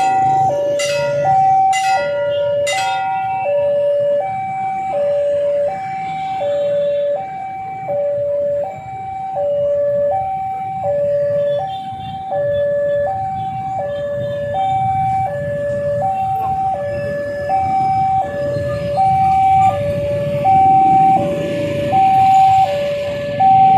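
Railway level-crossing alarm sounding a steady two-tone 'ding-dong', alternating between a lower and a higher note about every three-quarters of a second, over the low rumble of road traffic. Three sharp metallic strikes ring out in the first three seconds.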